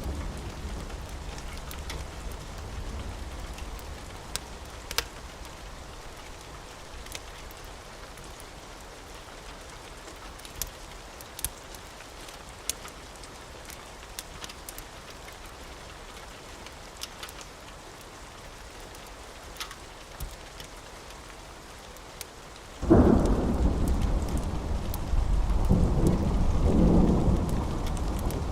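Steady rain with a few sharp crackles from a wood fire, then near the end a sudden loud thunderclap that rolls on into a long rumble.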